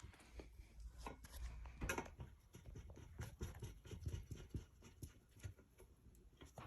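Faint scattered clicks and rubbing from hands working on ceiling fan parts.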